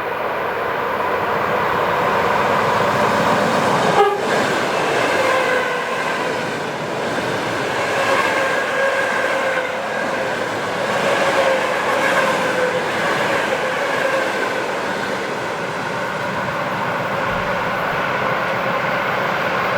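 EP2DM electric multiple unit passing close by, a continuous loud rush of wheels and running gear with a faint whine that sinks slowly in pitch. A single sharp click comes about four seconds in.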